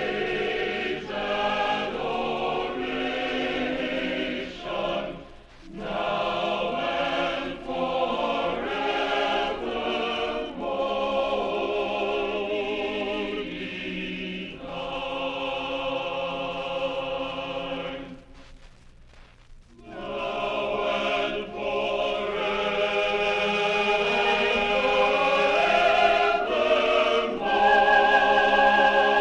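A choir singing held chords in sustained phrases, the notes wavering with vibrato. About two-thirds of the way through it falls nearly silent for a couple of seconds, then resumes and builds louder toward the end.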